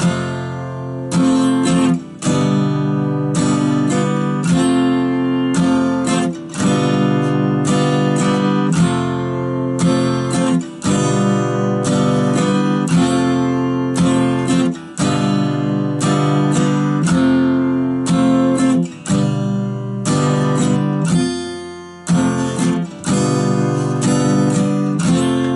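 Acoustic guitar strummed in a steady pattern, switching back and forth between an F major barre chord and a G7 chord, with a brief break in the sound at each change.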